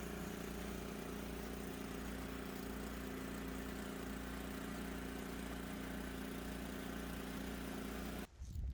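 Engine running at a steady speed with an even hum, cutting in abruptly and stopping just before the end.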